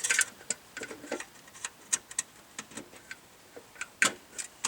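Irregular light clicks and taps of hard parts being handled in the truck's engine bay, around the air cleaner housing, with a few sharper knocks about two and four seconds in.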